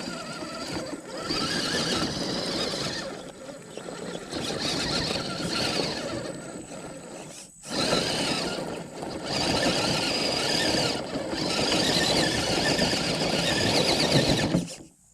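Redcat Gen8 V2 RC crawler's electric motor and drivetrain whining as it crawls over rocks, the whine swelling and dropping in stretches as the throttle is worked, with a short break about halfway through.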